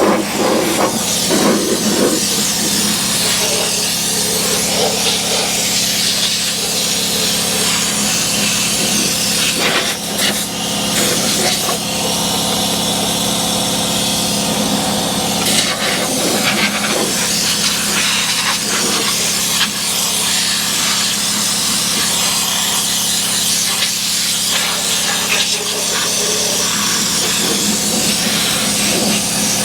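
Air-powered undercoating gun spraying oil under a truck: a steady spray hiss, with a steady low hum underneath and occasional scrapes.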